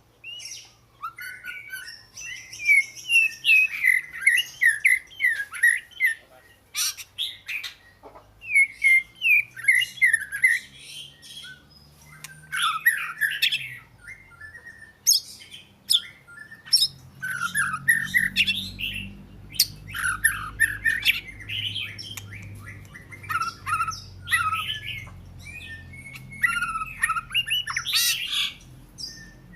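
Oriental magpie-robin singing: a varied run of quick whistled and scratchy notes, phrase after phrase with short pauses between.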